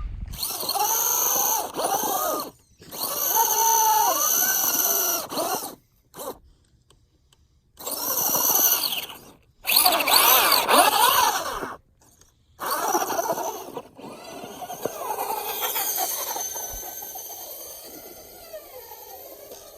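Traxxas Rustler 2WD RC truck's electric motor and gears whining in five throttle bursts, the pitch rising and falling with each, with short pauses between. The whine then carries on more faintly and slowly fades near the end.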